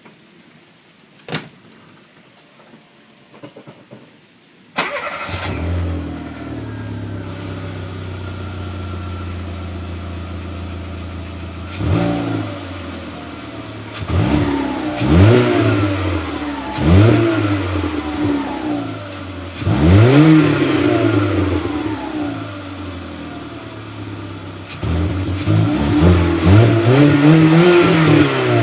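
Volkswagen Lupo 1.0's petrol engine and exhaust: a click, then the engine starts about five seconds in and idles steadily. From about halfway it is revved again and again, each rev rising and falling back to idle, the last one held longest near the end.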